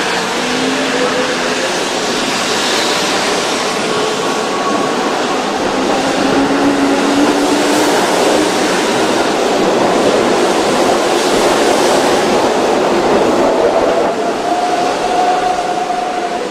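Keihan electric train running along the platform: a loud, steady rush of wheel and running noise with faint drifting whine tones, swelling in the middle and easing off near the end.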